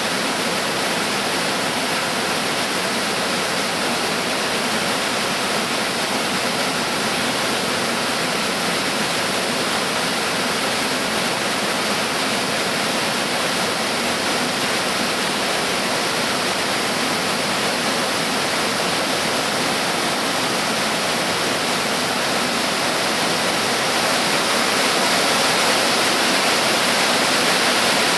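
Cascade waterfall rushing steadily, a dense, even roar of falling water that grows a little louder near the end.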